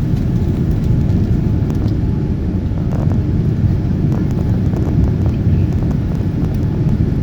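Steady low rumble of a Boeing 787-9's engines and rushing air, heard from inside the economy cabin at a window seat.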